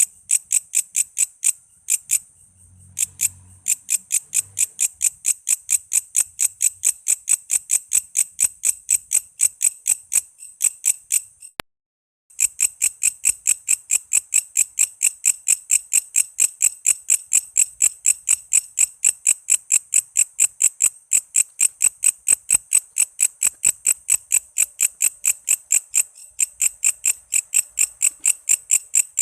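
Walang kece, a katydid, calling in a fast, even series of short chirps, about four a second. The calling pauses briefly about two seconds in and cuts out completely for under a second near the middle, then runs on unchanged.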